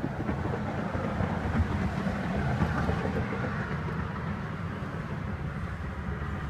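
Steady low vehicle rumble, even and unchanging, with no distinct events.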